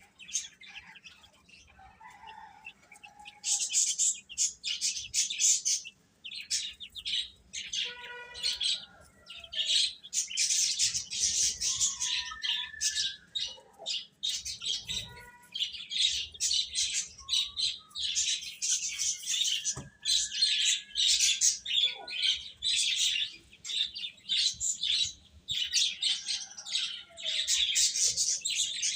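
Many chicks peeping at once in rapid, high-pitched chirps that overlap almost continuously, sparser for the first few seconds, with a few lower calls mixed in.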